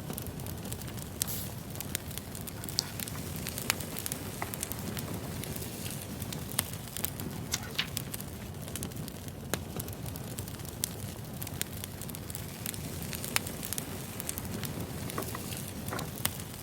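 Wood fire burning: a steady low rumble with irregular sharp pops and crackles of the burning logs.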